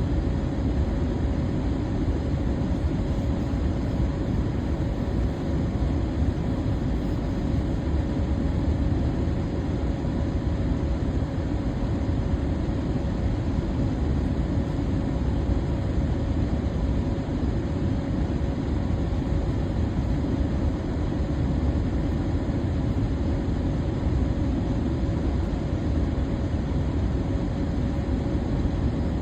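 Electric fan running steadily: an even low rushing noise with a faint steady hum-like tone above it.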